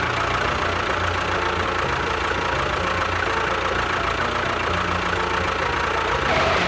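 Small engine running steadily at a constant speed, starting abruptly and easing off near the end.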